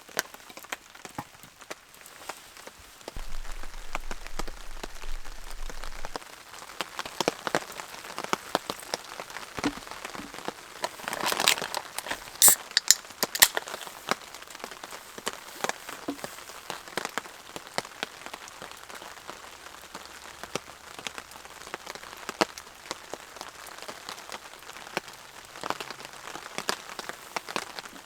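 Rain falling on a tarp shelter: an irregular patter of drops tapping, with a cluster of louder taps about halfway through.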